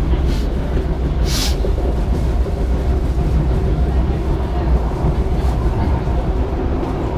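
Metro train running, heard from inside the carriage: a steady heavy rumble with two brief hisses early in the first second and a half.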